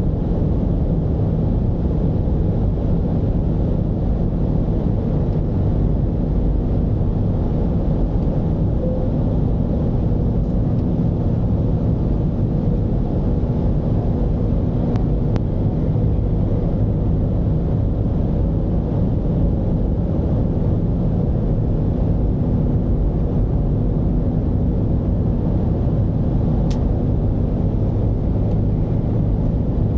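Mercedes-Benz V220 diesel engine running at a steady speed while driving, a constant low rumble with road noise and no change in pitch.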